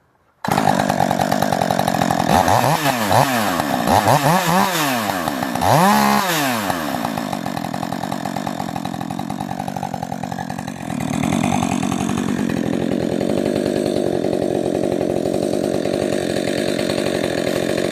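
Rebuilt, ported Husqvarna 562 XP two-stroke chainsaw engine starting abruptly, then revved three times in quick throttle blips and left idling. The idle steps up a little about eleven seconds in as the saw's AutoTune adjusts itself.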